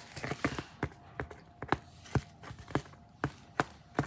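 A run of light, sharp taps or clicks, about three a second, quick and irregular at first, then settling into an even beat.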